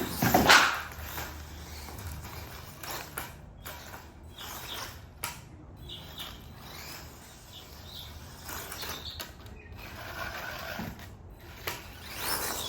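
Small electric RC mini monster truck (FMS Smasher with the FMS speed motor) driving in irregular bursts, its drivetrain clattering and ratcheting, loudest about half a second in. The noise comes from the stock plastic spur gear skipping on stripped teeth under the speed motor.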